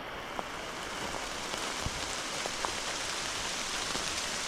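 Steady heavy rain falling through trees, with scattered individual drops ticking close by.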